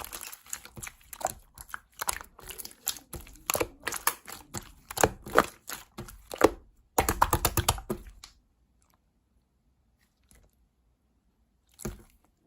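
A dense, irregular run of clicks, taps and handling noise for about eight seconds, then near silence, with a short cluster of clicks near the end.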